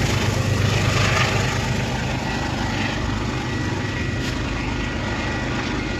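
Passing train rumbling away, its low rumble easing off over the first couple of seconds and leaving a steady hum with faint high tones.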